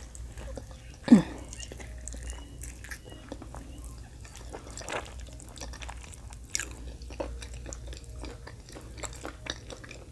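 Close-up eating sounds: a person biting and chewing oxtail meat held in the hands, with small wet clicks and smacks throughout. One louder mouth sound with a steeply falling pitch comes about a second in.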